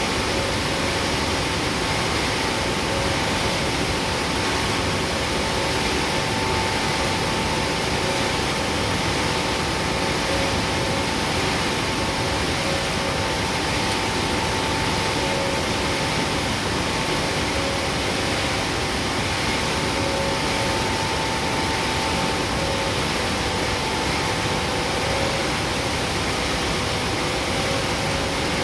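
Palm oil mill screw press and surrounding machinery running with a steady, loud industrial din, two steady humming tones held through it.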